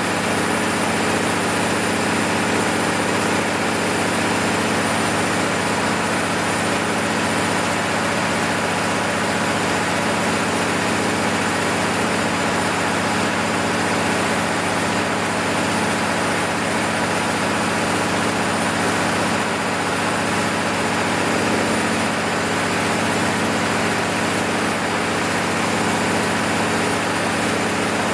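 Six-cylinder diesel engine of an MEP-006A 60 kW military generator set running steadily at constant speed during its load test after a full overhaul, a continuous even drone with no change in pitch or level.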